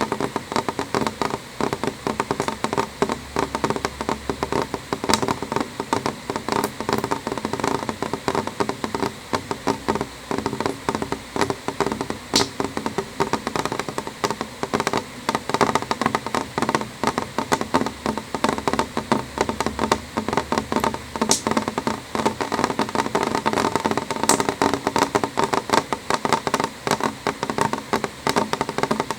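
Rain pattering on a window pane, heard from inside: a steady dense patter of drops tapping the glass, with a few sharper, louder ticks now and then.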